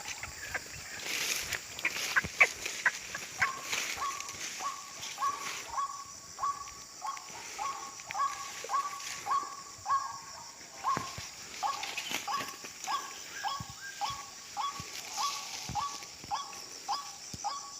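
White-breasted waterhen "kruak" call repeated steadily at nearly two calls a second, sounded as a lure to draw waterhens into the snares. Insects keep up a steady high hiss behind it.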